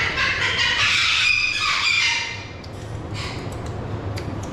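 A white cockatoo screeching harshly, stopping about two seconds in, followed by a few faint clicks over a steady low hum.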